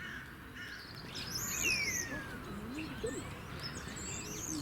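Birds singing in the open, with warbling high phrases and a clear falling whistle about two seconds in.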